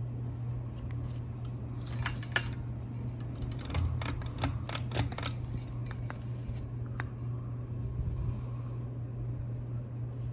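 Steady low hum of ceiling fans running, with a scatter of sharp metallic clicks and rattles about two to five seconds in and once more around seven seconds.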